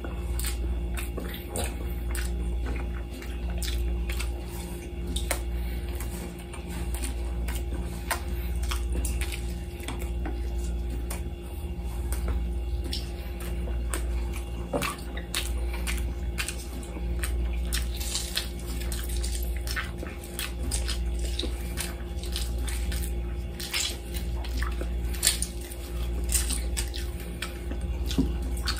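Close-up mukbang eating sounds: wet chewing and mouth smacks with many short scattered clicks as lamb chops and rice are eaten by hand, over a steady low hum.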